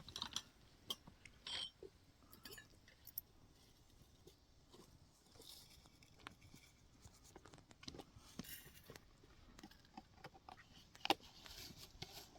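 Faint, scattered clicks, taps and short scrapes at irregular intervals, with one sharper click about eleven seconds in.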